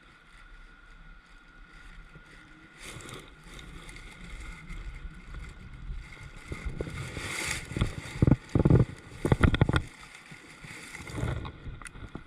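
Sounds from a kayak on the water: a rustling, sloshing haze that swells through the middle, with several loud low thumps, like knocks against the hull, between about eight and ten seconds in.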